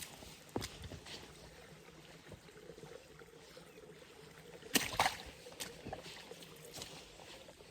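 Footsteps crunching on the forest floor: a few irregular, sharp crunches and snaps, most of them clustered about five seconds in, with quieter stretches between.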